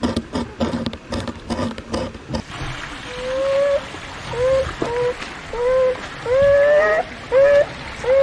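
Beaver sounds: a burst of rapid irregular clicks, then a run of about seven short whining calls, each rising slightly in pitch.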